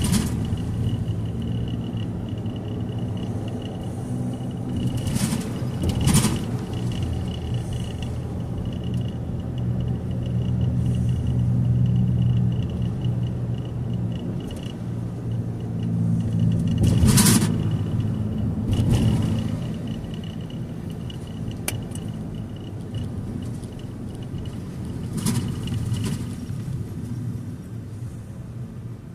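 A car driving, heard from inside the cabin: steady low engine and road rumble, with a few short knocks or bumps, the loudest about 6 and 17 seconds in.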